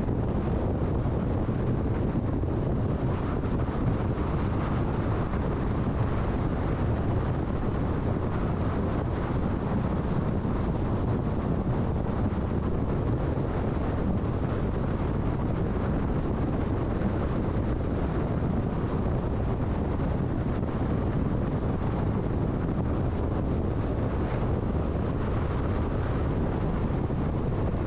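Steady road noise of a car driving at freeway speed: tyre noise and wind rush, even and unchanging.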